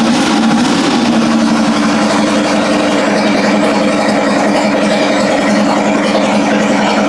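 Turbocharged Ducati 998 90-degree V-twin engine idling steadily on its first run with newly fitted pistons, its revs rising briefly under a second in. It sounds healthy: the fresh pistons look to have cured the engine's failure.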